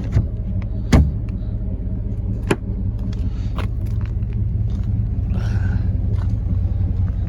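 Pickup truck's 5.7-litre gasoline V8 idling steadily, with a few sharp clicks or knocks in the first few seconds, the loudest about a second in.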